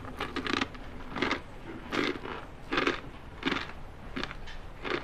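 A person chewing crunchy food with his mouth closed: short crisp crunches at an even pace, about one and a half a second.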